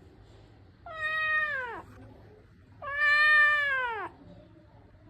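Domestic cat meowing twice, two drawn-out meows whose pitch drops at the end, the second longer and louder.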